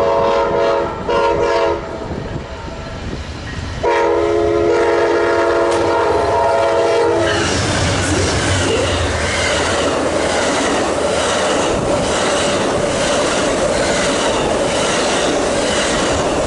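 BNSF freight train's diesel locomotive sounding its multi-note air horn: two short blasts, then a long blast of about three seconds. The train then rolls past with loud steady rail noise, wheel clatter and a faint ringing tone.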